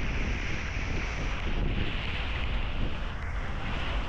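Wind rumbling on the microphone over a steady rushing hiss, on a boat.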